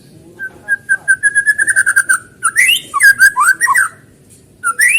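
White-rumped shama (murai batu) singing. A quick run of repeated notes on one pitch leads into a burst of varied whistled notes sliding up and down, with sharp clicks. After a short pause the song starts again near the end.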